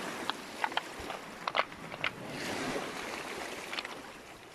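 Pebbles clicking against each other, several sharp knocks in the first two seconds, over a steady wash of sea surf and wind.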